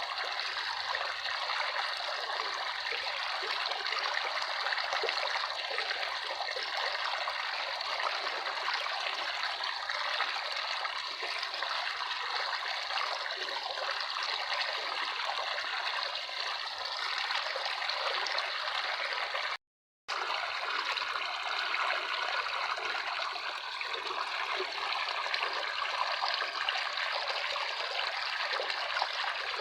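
Running water of a stream trickling and splashing steadily. The sound cuts out completely for a split second about two-thirds of the way through, then resumes unchanged.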